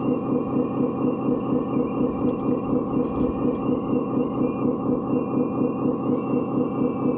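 A small model machine's motor running steadily with an even pulsing drone of about four beats a second and a faint high whine over it.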